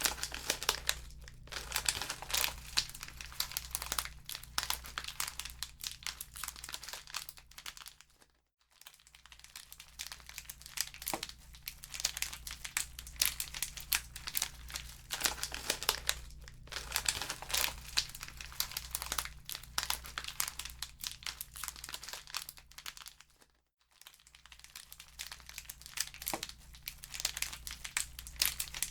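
Wood fire crackling in a fireplace, a dense run of small irregular pops and snaps over a low steady hum, cutting out for a moment twice.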